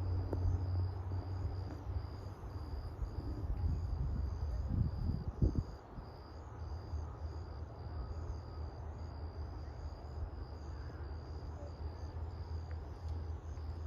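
Insects chirping outdoors: a high, evenly repeated chirp over a low rumble, with a few soft thumps about five seconds in.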